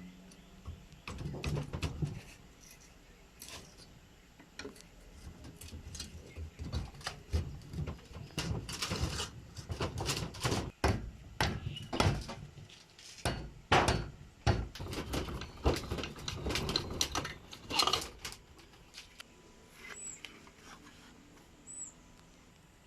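Irregular knocks, taps and clatters of hand work on hard objects, dense through the middle and dying away near the end, with a few faint high squeaks afterwards.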